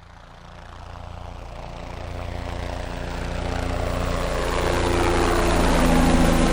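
Helicopter engine and rotor noise, a steady low pulsing with a rushing hiss, growing steadily louder as if approaching.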